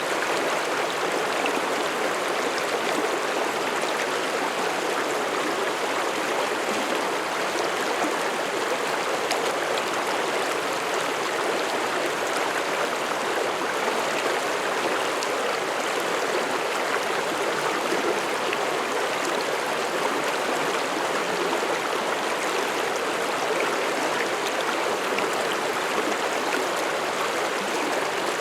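Mountain stream rushing and babbling over rocks: a steady, even flow of water.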